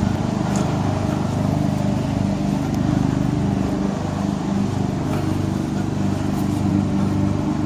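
An engine running steadily at an even speed: a low, throbbing hum that holds the same pitch throughout.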